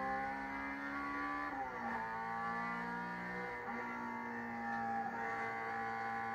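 Honda Civic EG race car's engine heard from inside the cabin, running hard under load; its pitch drops about a second and a half in and picks up again a couple of seconds later as the driver works through a corner.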